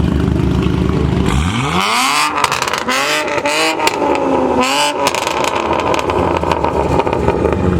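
Car engine revved hard at a car meet: a low rumble, then about a second and a half in the revs climb and are held high with rapid crackling. Near five seconds the revs drop, blip up once more, and settle back to a steady rumble.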